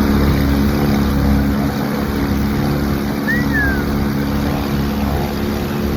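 A 70-year-old boat motor running at a steady speed, its even hum laid over a rush of noise.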